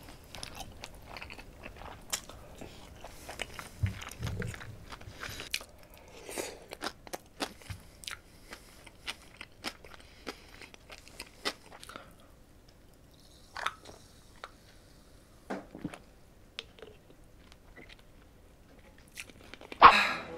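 Close-miked chewing of spicy braised pig's trotters (bul-jokbal): many short, wet mouth clicks and smacks, thinning out after about twelve seconds, with one louder sharp mouth sound near the end.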